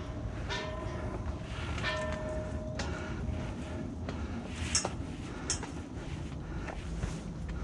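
Metal ladder bolted to a limestone cliff being climbed: rungs clank and ring briefly under hands and feet, several times, among scattered knocks and a low handling rumble.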